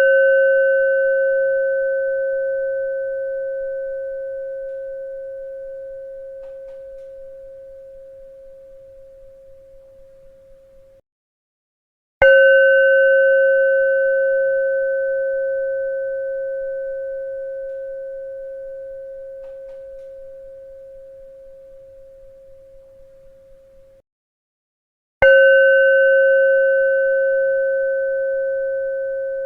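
A bell struck three times, about every 13 seconds: each strike rings with a steady mid-pitched tone and a few higher overtones that die away quickly, fades slowly with a slight wavering toward the end, then cuts off abruptly before the next strike.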